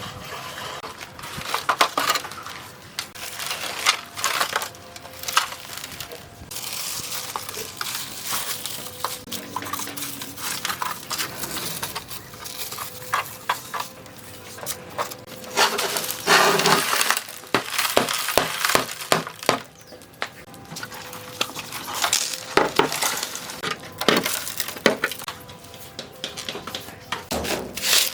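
Irregular clinks, knocks and scraping of hand work on metal parts, with a faint steady hum underneath.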